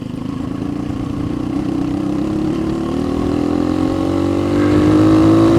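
Off-road motorcycle made street legal, its engine pulling steadily with pitch and loudness rising gradually, then falling off sharply right at the end.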